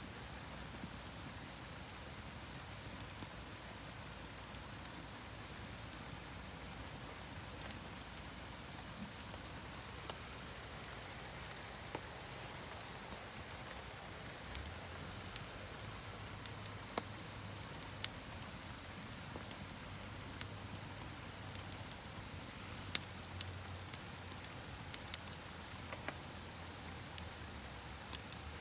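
Steady hiss of rain and a flowing river, with a campfire's crackles and sharp pops over it. The pops are sparse at first and come more often from about halfway through.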